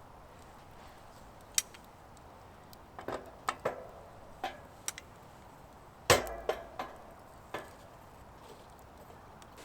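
Scattered knocks and clinks of hard objects being handled, about eight in all: a single sharp click early, a cluster around three to four seconds in, and the loudest knock, with a dull thump, about six seconds in.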